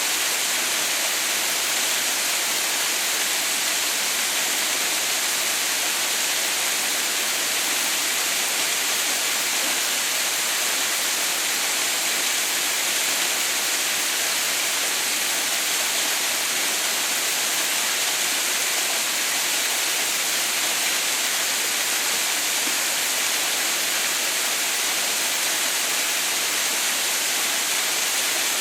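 Waterfall running steadily: an even, unbroken hiss of falling water that is strongest in the high end.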